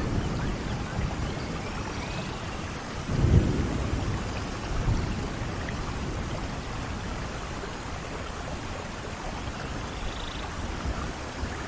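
Steady rain falling, with a low rumble of thunder about three seconds in.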